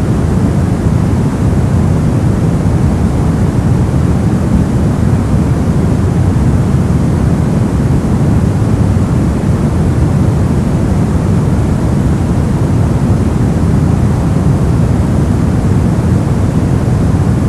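Brown noise: a steady, even, deep rushing hiss with most of its weight in the low end, unchanging throughout.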